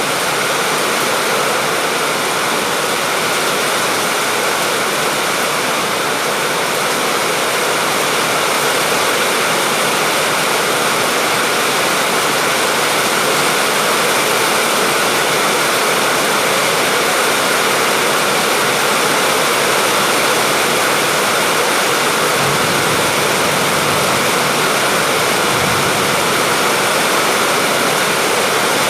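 Steady, even rain falling, a dense hiss with no separate drops standing out. A faint low rumble swells briefly twice in the second half.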